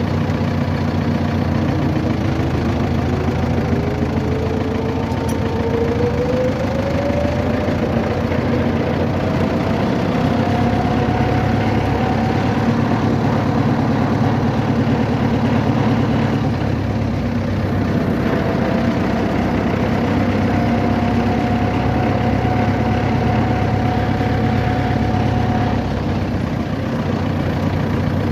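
Vehicle engine running steadily with a low hum, and a thin whine that climbs slowly in pitch over several seconds and then holds level.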